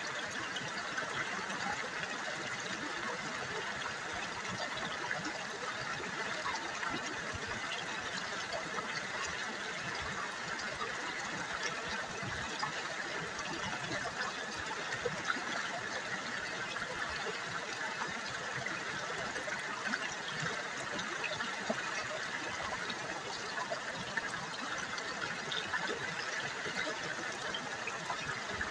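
River water burbling and splashing over stones in a steady, unbroken flow, with small splashes throughout.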